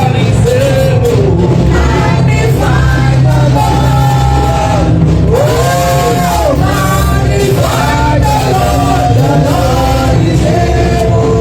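Church worship music: a voice singing a melody over a band with a strong, steady bass line.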